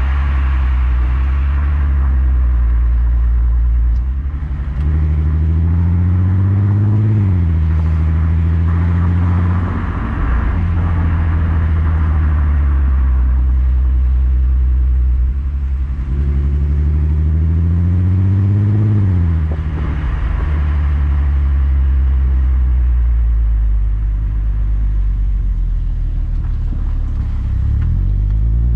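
Skoda Superb's 3.6 FSI VR6 engine through a Gestec cat-back exhaust, driving at a steady cruise. Twice it pulls up in pitch for about three seconds, each time ending in a sudden drop as the DSG gearbox shifts up.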